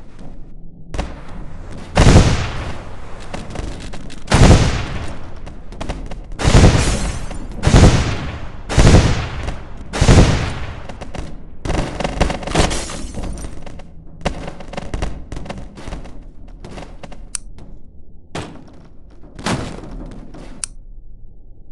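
A string of loud, sharp bangs like shots or blasts, each with a short ringing tail. About one comes every second or two, the biggest in the first half, then smaller and more scattered ones.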